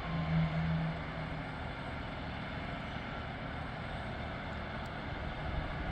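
Steady outdoor vehicle noise: a low engine hum over a constant rushing background, the hum fading after about a second and a half.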